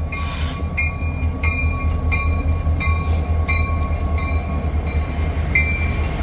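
Railroad cars of a slow-moving train rolling past, with a steady low rumble and wheels clicking over the rail joints about one and a half times a second.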